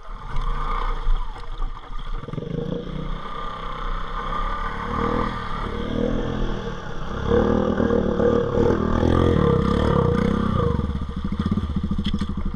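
ATV engine working under load and revving up and down as it wades through deep floodwater, its rear tires floating. The revs climb and run loudest from a little past halfway, then ease back near the end.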